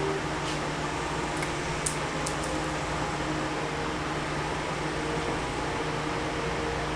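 Steady fan-like hum and hiss with a few faint, light clicks about two seconds in.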